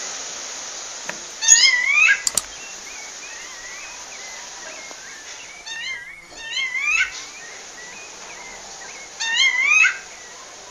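Female rufous-bellied thrush (sabiá-laranjeira) calling to a male: three bouts of quick, rising, slurred notes a few seconds apart, with softer notes in between. Two sharp clicks about two seconds in.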